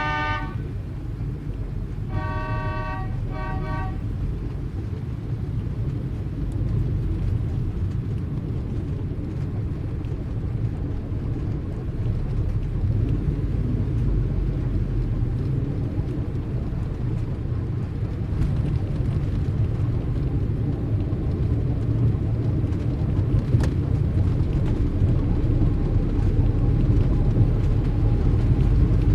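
Street traffic: a car horn sounds at the start and again in a few quick toots about two to four seconds in, over a steady low rumble of engines that grows slightly louder.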